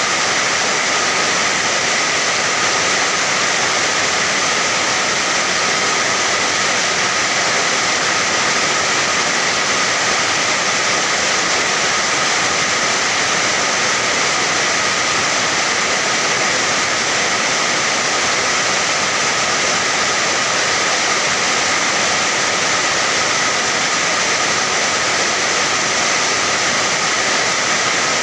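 Steady rain: an even, unbroken hiss with no single drops or other sounds standing out, unchanging throughout.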